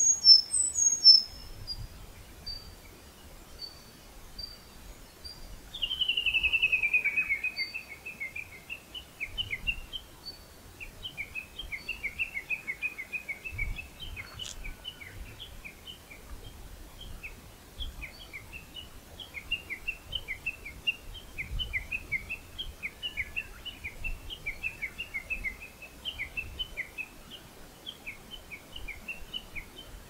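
Wild songbirds singing: a few high, thin notes at first, then from about six seconds in a falling trill that runs into a long, fast series of chirping notes that keeps going to the end. One sharp click about fourteen seconds in.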